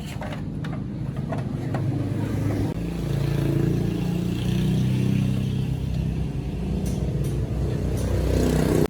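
Small motorbike engine running, its engine speed shifting up and down and getting louder toward the end, then cutting off suddenly.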